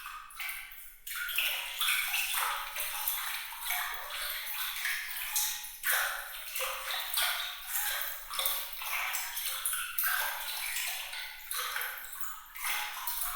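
Water trickling and splashing in a dense stream of small, bright droplet plinks, high-pitched with almost no low end, dipping briefly a few times.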